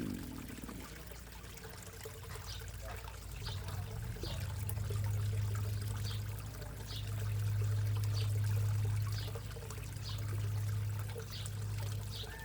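Backyard pond water trickling and splashing steadily. A low hum comes in a few seconds in and swells and fades, and short high chirps repeat throughout.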